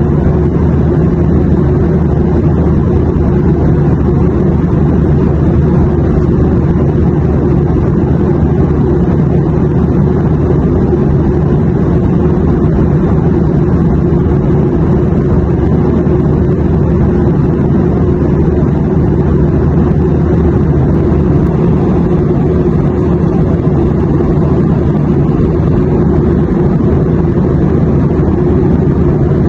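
Airplane noise: a steady, unchanging low drone with a deep hum under a wash of noise, played as sleep white noise.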